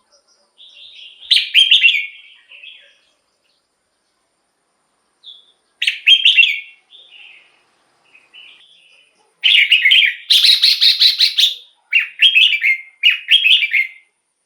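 Red-whiskered bulbul singing short, loud, warbled phrases in several bursts with pauses between, the phrases coming nearly back to back in the second half.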